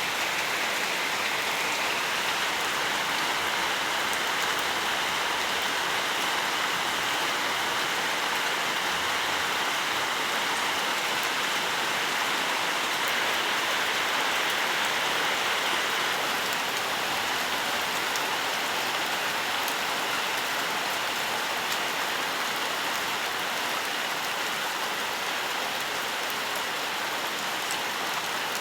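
Steady rainfall: an even hiss of rain on surfaces, with scattered individual drop ticks.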